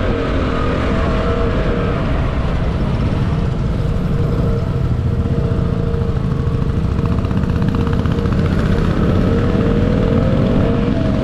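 Motorcycle engine running on the move under a heavy low rumble of wind on the microphone. The engine note fades in the middle and rises again near the end.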